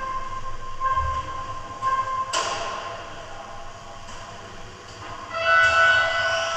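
Electronic beeps about once a second for the first two seconds, then a sudden hissing onset that fades. About five seconds in comes a louder held electronic tone made of several pitches at once, as from a race timing system's start sequence for radio-controlled model trucks.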